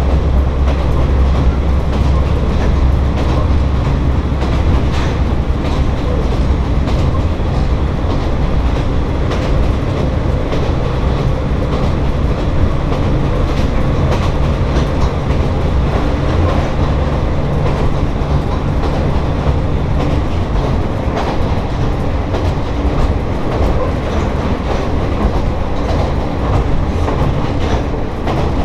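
Inside a Kanto Railway Joso Line diesel railcar under way: a steady low engine and running-gear drone with the clickety-clack of wheels over jointed rail. The low drone eases a little after about twenty seconds.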